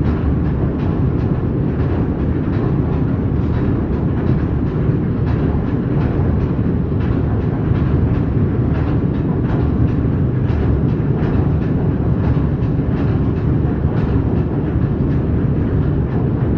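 Train running on the line, its wheels clacking over the rail joints in a quick irregular series over a steady low rumble.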